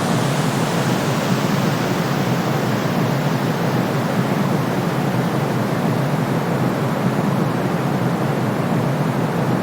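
Steady white noise for soothing a baby: an even, unbroken hiss weighted toward the low end, with no tones or rhythm.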